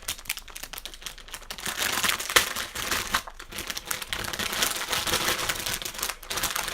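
Plastic anti-static bag around a graphics card crinkling as it is handled, with one sharper crackle about two and a half seconds in.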